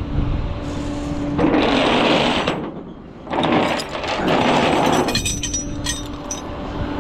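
Flatbed tow truck's equipment running: a steady low hum, broken twice by long grinding mechanical runs of a second or two each, with clicks and clanks near the end.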